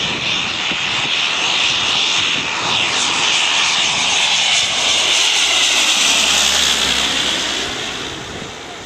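Airliner passing overhead: a loud rushing engine noise that swells to a peak around the middle and fades away near the end.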